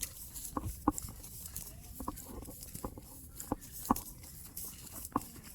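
Footsteps in snow: each step is a short, squeaky crunch, coming irregularly about every half second to a second.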